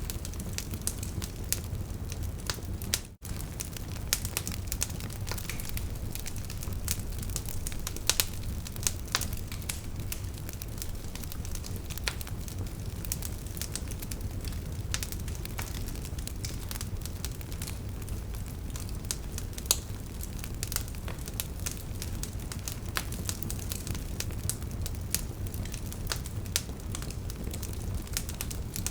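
Burning wood logs crackling, with frequent sharp pops and snaps over a steady low rush of flames. The sound drops out for an instant about three seconds in.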